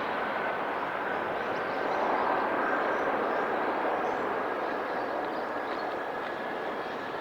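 Airbus A350's Rolls-Royce Trent XWB turbofans at takeoff thrust: a steady jet roar with a thin whine that edges slowly up in pitch.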